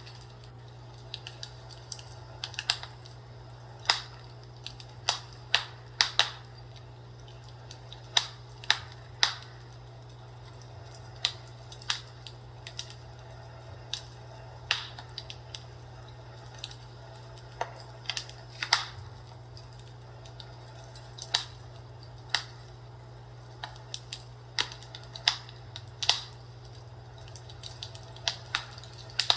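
Fireplace fire crackling: irregular sharp pops and snaps, about one or two a second, over a steady low hum.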